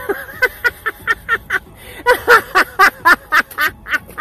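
A woman laughing hard in rapid, rhythmic bursts, about four or five a second.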